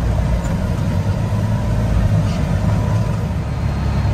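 Peterbilt grain truck's diesel engine running steadily, its sound mostly deep and low-pitched.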